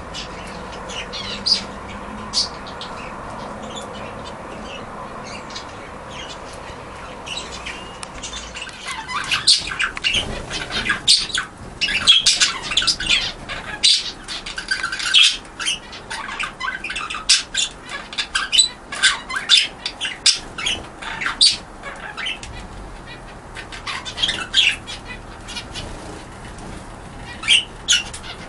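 Budgerigars calling with short, sharp chirps, squawks and clicks. The calls are sparse over a steady background hum at first, come thick and fast from about a third of the way in, then thin out, with a few more near the end.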